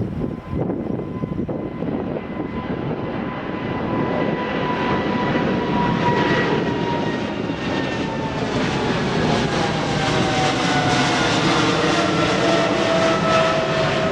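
Jet airliner's engines passing close by, growing louder over the first few seconds, with whining tones that slowly fall in pitch as the aircraft goes past.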